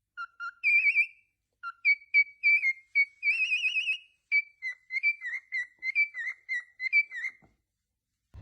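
A parrot whistling: a string of short, warbling whistle notes, one longer wavering note about three seconds in, then a quick run of short falling notes that stops near the end.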